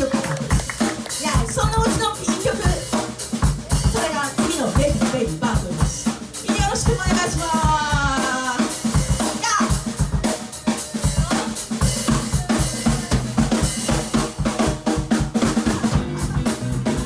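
Live rock band playing, the drum kit loudest, with snare, bass drum and cymbals hit in a steady driving rhythm. A pitched instrument plays bending lines over it about halfway through.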